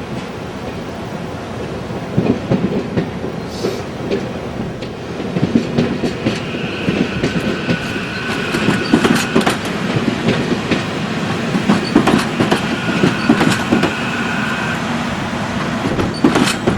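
Railroad cars rolling past with a steady run of wheel clicks and knocks over the rail joints. A high, steady wheel squeal comes in about six seconds in and lasts about eight seconds.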